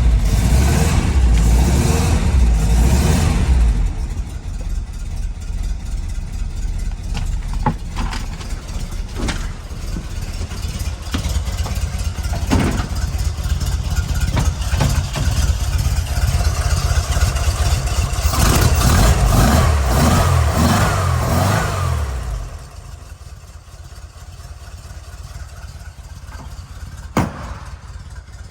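1958 Porsche 356A's air-cooled flat-four running just after a cold start, having sat for three days: loud at first, easing to a steadier run about four seconds in, revved several times toward the end, then switched off about 22 seconds in. A single sharp click follows a few seconds later.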